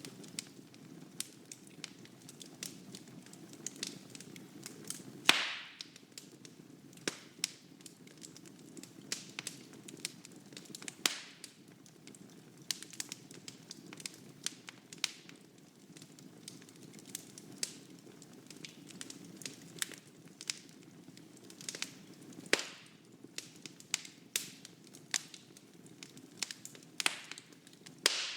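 Wood fire burning in a fireplace: a steady low rush of flame with frequent sharp crackles and snaps. The loudest pops come about five seconds in and near the end.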